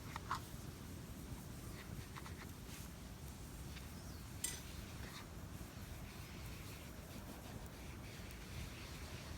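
Faint, steady low outdoor rumble with a few scattered short clicks and pops, the sharpest about four and a half seconds in.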